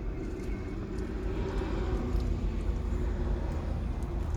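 Steady low vehicle drone with a held humming tone, like an engine running nearby.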